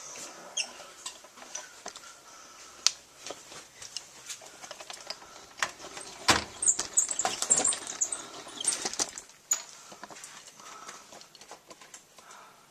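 Assorted clicks, taps and rustling from objects being handled, with a busier stretch of rustle and clatter about halfway through.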